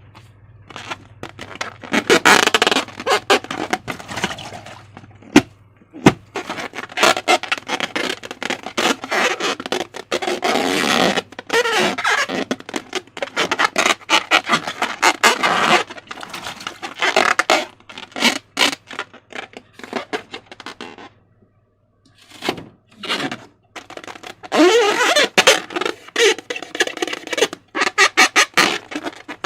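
Slime being squeezed and stretched by hand: dense sticky crackling and squelching in bursts. There is a short pause about five seconds in and a longer one a little past the twenty-second mark.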